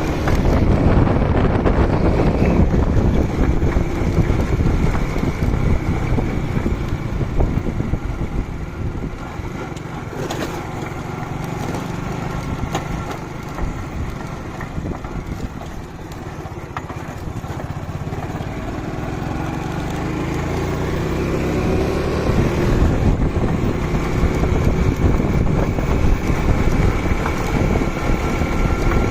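Motorcycle engine running under way, with wind buffeting the microphone; the engine eases off around the middle and picks up speed again in the second half.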